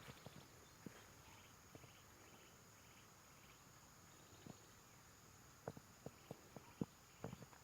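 Faint insects chirping in short, evenly repeated pulses over a quiet rural background, with a few soft clicks in the second half.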